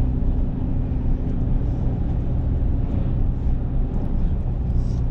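Steady low rumble of a vehicle in motion heard from inside, with a constant low hum.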